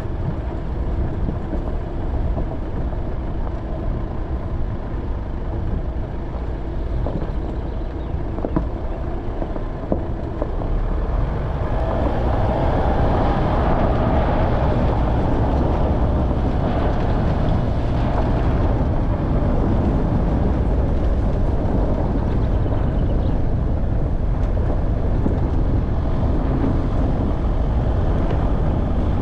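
Off-road vehicle driving, its engine and running noise steady and low-pitched, getting louder about eleven seconds in.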